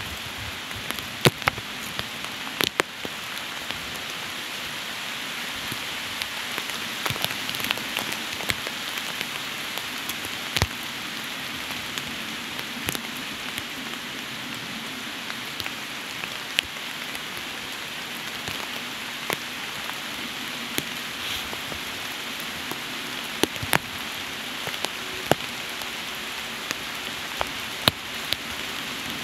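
Steady rain with individual drops landing close by in sharp, scattered ticks.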